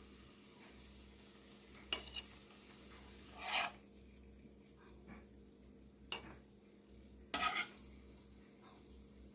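A cooking utensil scraping and knocking against a pan, stirring stir-fried chicken gizzards and vegetables in four short separate strokes, with the stirs about 3.5 and 7.5 seconds in a little longer than the others.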